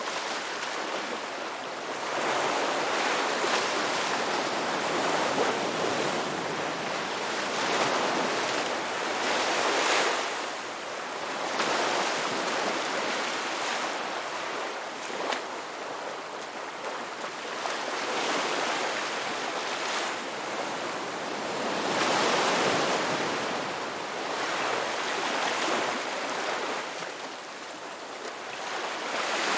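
Ocean waves breaking and washing onto a rocky beach, surging and falling back in repeated swells every few seconds.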